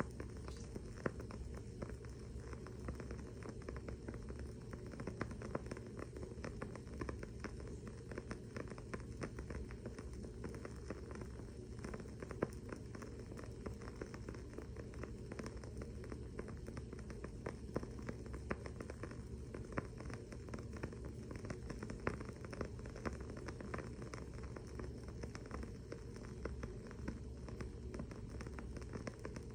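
Wooden-wick candle burning with a steady, dense crackle of many small irregular ticks and an occasional louder pop, over a low steady hum.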